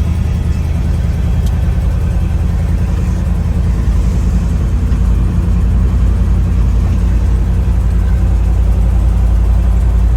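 A 1961 Chevrolet Apache truck's 454 big-block V8 running steadily while the truck drives, a deep, even engine drone heard from inside the cab.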